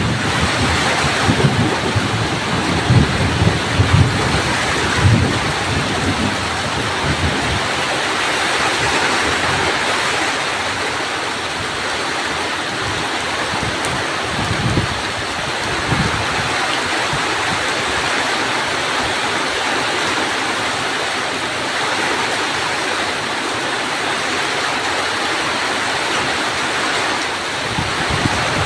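Heavy rain pouring steadily during a thunderstorm, with brief low rumbling surges in the first few seconds and again about halfway through.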